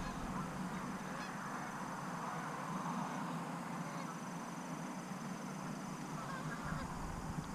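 A flock of geese honking, a steady wash of overlapping calls.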